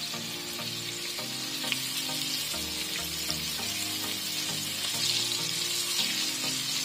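Battered shrimp deep-frying in hot oil in a wok: a steady sizzle, with a metal spatula stirring and turning them in the oil. Soft background music plays underneath.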